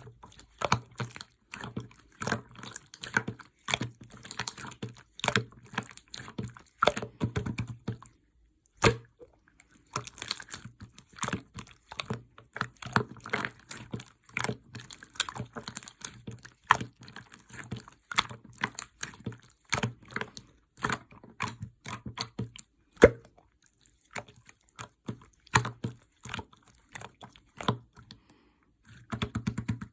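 Clear slime being pressed, poked and stretched by hand, giving rapid irregular sticky clicks and small pops.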